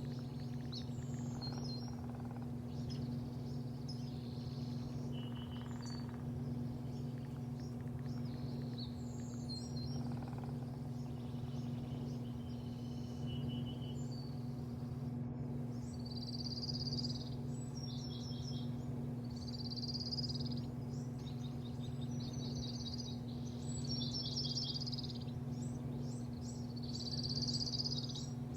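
Birds chirping in short repeated notes, more often in the second half, over a steady low hum.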